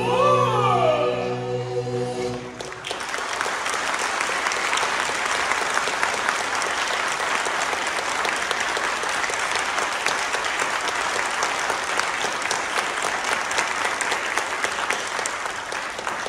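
The backing music ends on held, gliding notes in the first two seconds or so, and about three seconds in an audience breaks into steady applause.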